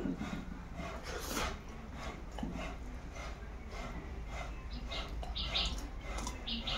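Eating sounds: wet mouth-smacking while chewing rice and fish eaten by hand, with fingers working the rice on a steel plate.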